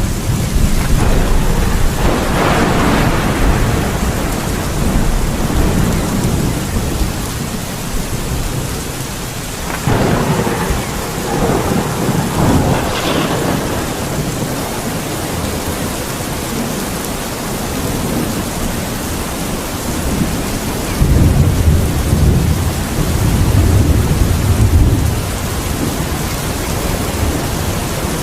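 Steady rain with rolling thunder. The thunder rumbles and crackles several times, loudest in the first half and again about three-quarters of the way through.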